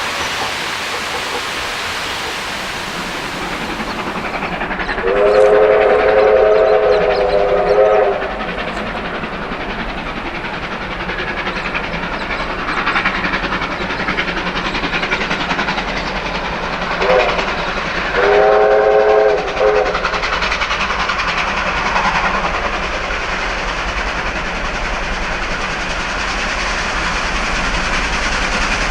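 Victorian Railways R-class steam locomotive running, its whistle blown twice: a long blast about five seconds in, then a short toot and a shorter blast about eighteen seconds in.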